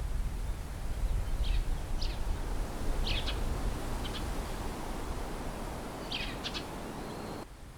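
Birds chirping, about six short calls spread out, over a steady outdoor background with a low rumble like wind on the microphone. The background drops suddenly near the end.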